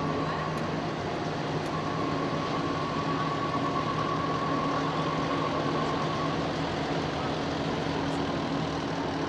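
Fire truck engines idling and running steadily, with a faint steady high tone from about two to six seconds in.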